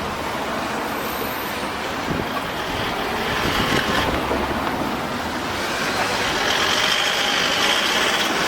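Seibu Shinjuku Line train passing through a level crossing: a steady, loud rumble of wheels on rail, with a faint high thin tone coming in twice.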